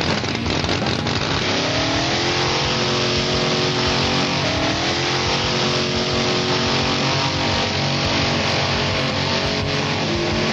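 Twin supercharged, carbureted engines of a custom tractor puller running hard under load, with a dense roar. The pitch climbs twice in the first half, then holds steady.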